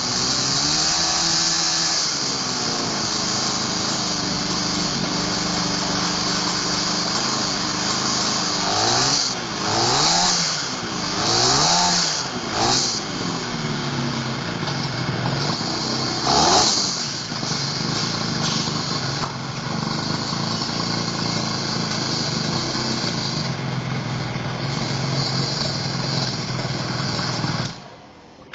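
Yamaha AS3's 125 cc two-stroke twin engine running on its first run, idling steadily and blipped up in revs a few times about a third of the way in and once more just past halfway.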